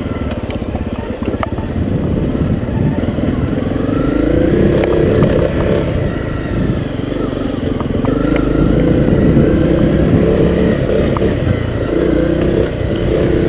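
Honda CRF250L's single-cylinder four-stroke engine running under load, its pitch rising and falling as the throttle is worked, with a few sharp knocks and clatter from riding over rough ground.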